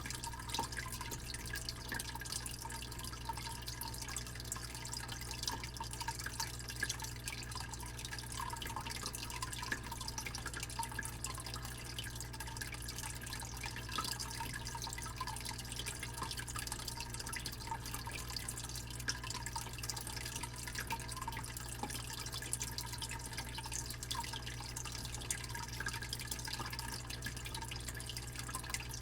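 Fish tank air or filter pump running with a soft, steady hum, under constant trickling and bubbling water with small irregular drips and splashes.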